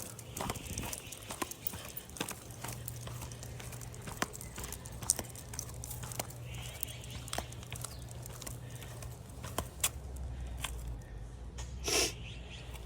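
Footsteps on a walk, with many sharp irregular clicks over a low steady hum. A short, louder sound comes near the end.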